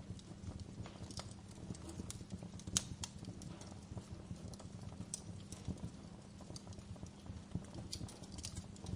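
Wood fire crackling in a fireplace: irregular pops and snaps over a steady low rumble of burning, with one sharper pop about three seconds in.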